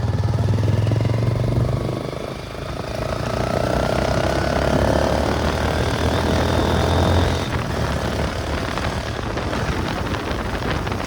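Motorcycle engine running under way, with wind rushing over the microphone. The engine's low note fades about seven and a half seconds in, leaving mostly wind noise.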